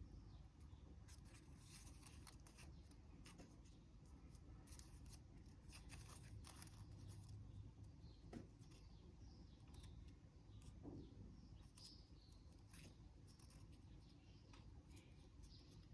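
Faint sheet of origami paper being folded and creased by hand: scattered soft crinkles and rubs over a low room hum.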